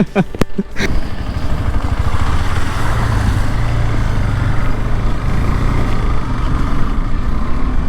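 A motor vehicle's engine running steadily under light load, with a few sharp clicks about half a second in.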